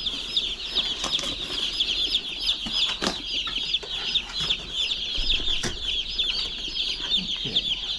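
A crowd of Cornish Cross chicks peeping nonstop in a dense, high chorus, with a few sharp knocks about three and six seconds in.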